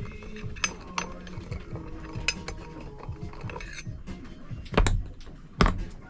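Metal parts of a stovetop moka espresso maker clinking and tapping as the pot is handled, then two heavy knocks near the end, less than a second apart.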